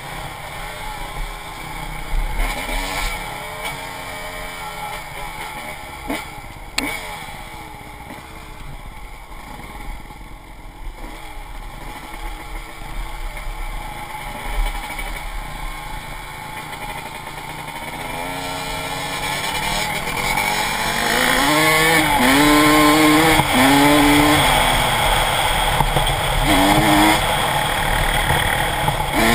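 Dirt bike engine running while riding, its pitch wavering with the throttle. In the last third it gets louder and revs up and drops back several times.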